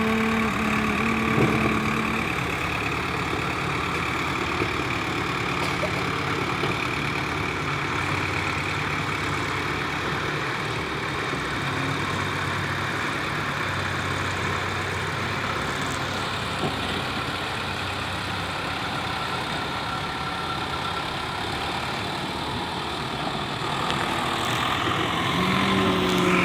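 Tractor engine running steadily with an even, low hum.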